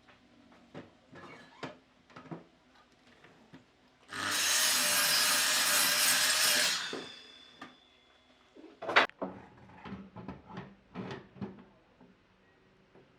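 A power tool working wood for about two and a half seconds, then winding down, with knocks and clatter of wood being handled before and after; the loudest single knock comes about two seconds after the tool stops.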